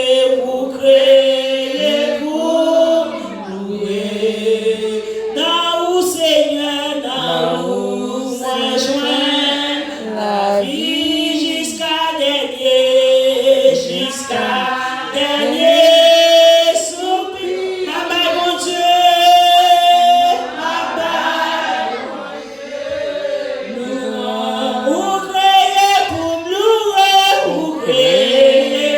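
A church congregation singing together in men's and women's voices, in long held lines.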